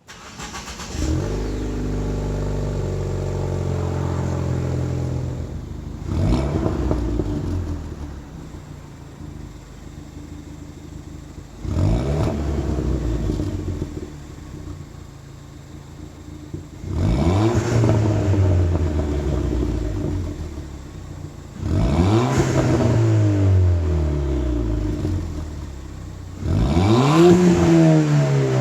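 Ford Fiesta ST's turbocharged four-cylinder engine exhaust, fitted with a Milltek cat-back, idling and then revved in five quick blips. Each rev rises in pitch and falls back to idle.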